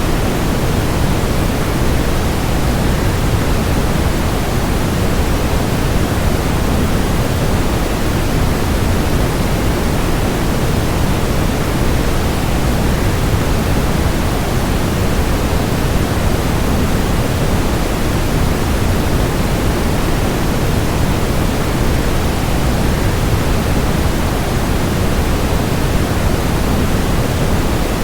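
Steady, unbroken rushing noise of falling water blended with white noise, heavier in the low end, with no changes or separate events.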